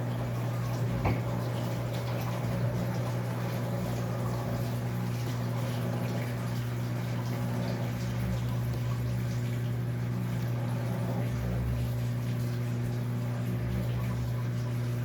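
Electrolux LAC13 13 kg top-load washing machine running mid-cycle: a steady low hum with water moving in the drum, and a single click about a second in.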